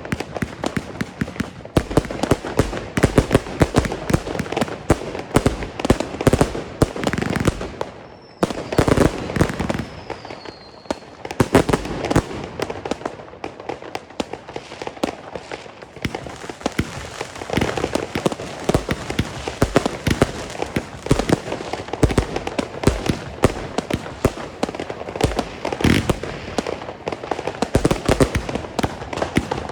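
Consumer firework batteries firing in rapid succession: a dense stream of bangs and crackling, with a faint falling whistle about a third of the way in.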